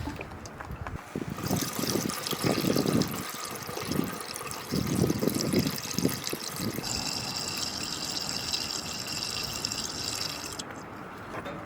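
Water being poured into a container, with uneven glugging splashes for the first half, then a steadier high-pitched running-water tone that cuts off suddenly.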